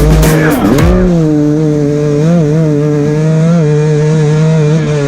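Music cuts off about a second in. Then a motocross motorcycle engine is held at steady revs, blipped up briefly twice.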